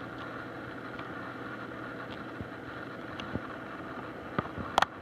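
Steady background hum and hiss with a few faint clicks, and a sharper pair of clicks near the end.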